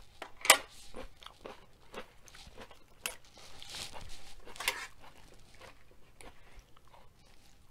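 Close-up eating sounds: chewing and crunching of food in the mouth, with a sharp click about half a second in and the rustle of a crisp lettuce leaf being handled a few seconds in.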